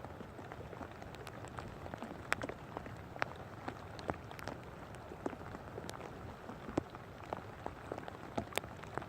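Rain falling over a steady hiss, with irregular drops ticking sharply close to the microphone.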